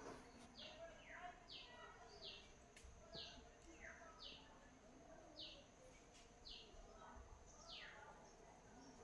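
Faint bird chirping: a short, high note that slides down in pitch, repeated about once a second.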